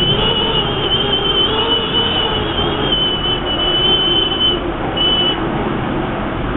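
Typhoon-force wind roaring steadily, with a high wavering whistle over it and a lower moan beneath. The whistle breaks off about four and a half seconds in and comes back briefly a moment later.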